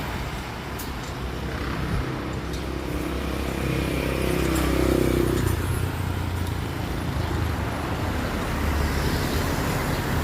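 Road traffic: motor vehicle engines running, with one engine note sliding down in pitch about halfway through.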